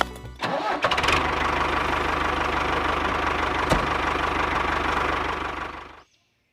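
Small engine driving a water pump, running steadily with a fast, even pulse. It fades out near the end.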